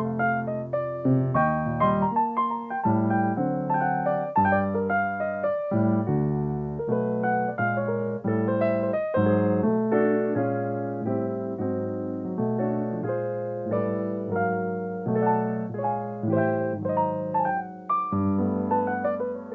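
Solo piano playing, a stream of notes and chords with a steady flowing movement.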